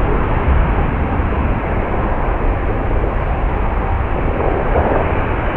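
Jet airliner engines on or near the runway, a loud steady rumble heavy in the low end with no breaks or distinct events.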